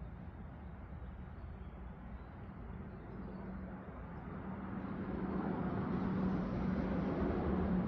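An engine running steadily at one even pitch, growing louder from about halfway through.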